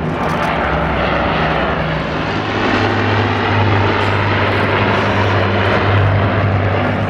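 Avro Lancaster's four Rolls-Royce Merlin piston engines droning in a flypast, growing louder about two and a half seconds in and easing off near the end.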